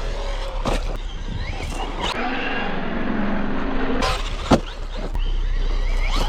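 Traxxas Maxx V2 RC truck's brushless motor whining up and down in pitch as it is driven, with several sharp knocks, the loudest about four and a half seconds in.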